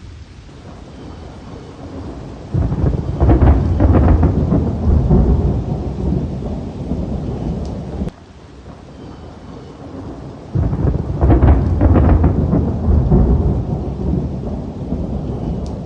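Thunder rumbling twice over steady rain. Each peal starts suddenly and rolls on for several seconds.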